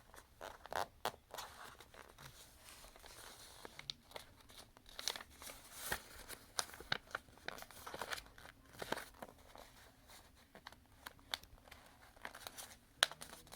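A sheet of paper being folded and pressed into creases by hand: irregular rustling and crinkling with short sharp crackles.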